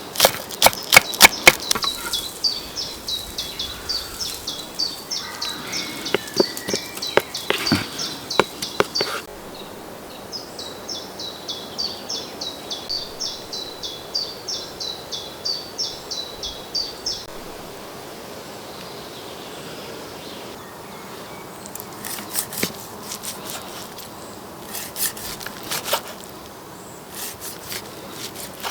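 Outdoor ambience: a bird gives a long run of high chirps, about two or three a second, that stops briefly and then resumes for several more seconds. Sharp clicks and taps come over it, loudest in the first two seconds, with a few more near the end.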